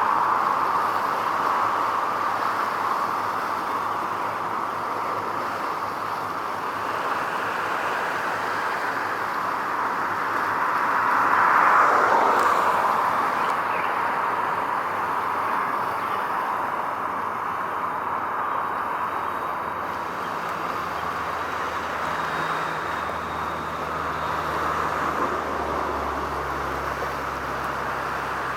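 Steady rush of passing traffic, swelling as one vehicle goes by about twelve seconds in. A low hum joins in during the second half.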